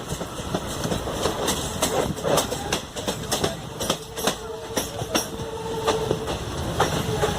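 Passenger train running along the track: a steady rumble with wheels clicking over rail joints, and a thin steady tone for a couple of seconds past the middle.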